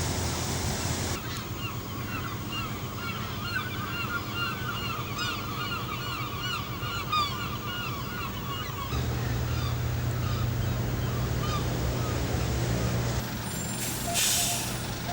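A flock of birds calling rapidly in short rising-and-falling cries over a low background rumble. About nine seconds in, a steady low engine hum takes over, and a short hiss follows near the end.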